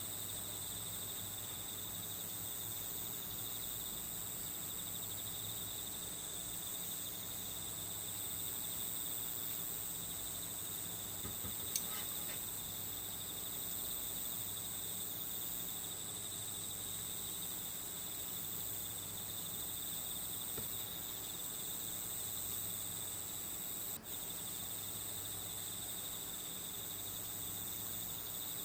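Steady, unbroken chorus of crickets chirping. A single short click is heard about halfway through.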